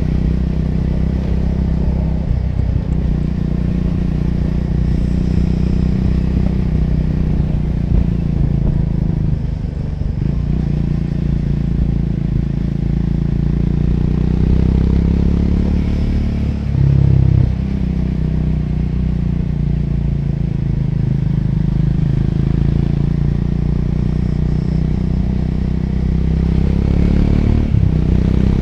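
Triumph Scrambler 400X's single-cylinder engine running steadily, with one brief louder swell of revs about two-thirds of the way through.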